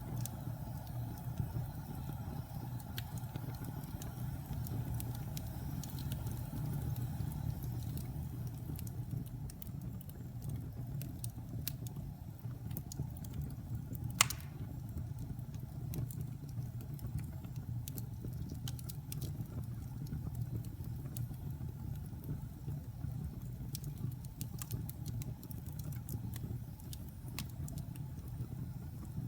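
Wood fire in a fireplace burning with a steady low rumble and scattered crackles, with one loud pop about halfway through.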